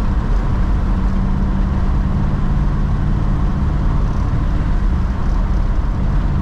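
Steady engine drone and road rumble from a Ford Customline driving at a constant speed, heard inside the cabin.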